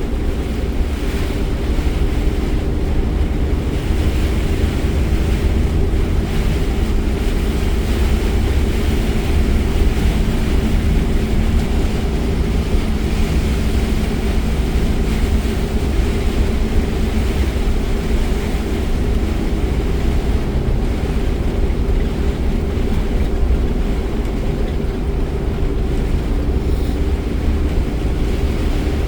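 Steady rushing noise inside a car driving through a rainstorm: tyres on the wet road and rain and wind on the body over a deep low rumble, with a faint steady drone underneath.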